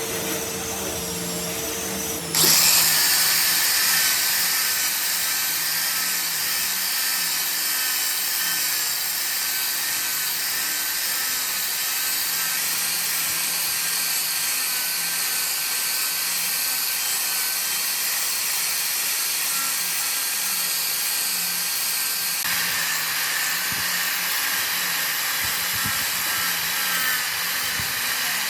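A workshop tool running steadily with a strong hiss, switched on abruptly about two seconds in, over a quieter machine hum that precedes it.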